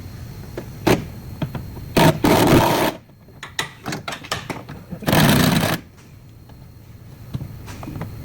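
Workshop clatter from bodywork repair: scattered sharp clicks and knocks, with two short, loud scraping or rattling bursts about two and five seconds in.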